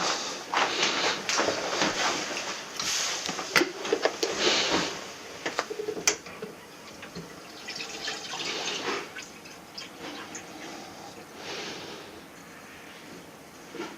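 Water spraying and splashing in intermittent bursts, then quieter dripping with scattered clicks and knocks, as an air conditioner is washed during cleaning.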